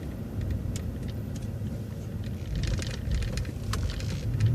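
City transit bus running, with a steady low engine hum and road noise and scattered light rattles and clicks about halfway through.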